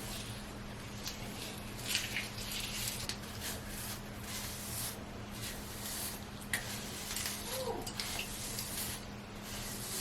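Soft, irregular rustling and squishing of hands working conditioner through wet, product-coated hair while twisting it up, over a steady low electrical hum.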